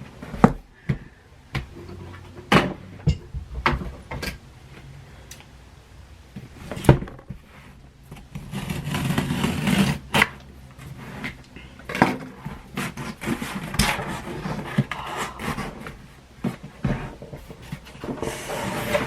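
A cardboard shipping box being handled and opened by hand: scattered knocks and scrapes, with longer stretches of rustling and tearing paper near the middle and again near the end.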